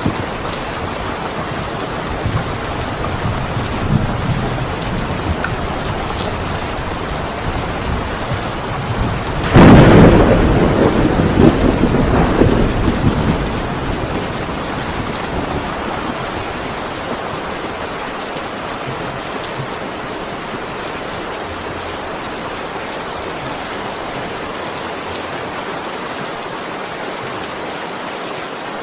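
Heavy rain falling steadily, with a loud clap of thunder about ten seconds in that rumbles away over the next few seconds.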